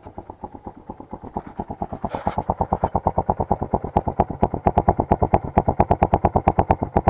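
Honda XR150's single-cylinder four-stroke engine idling, its exhaust giving an even train of pops, about eight a second, that grows louder over the first few seconds.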